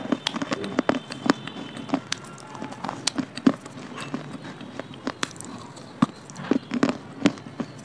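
Close-up chewing and crunching of hard, brittle baked clay pieces: a rapid, irregular string of sharp cracks and clicks.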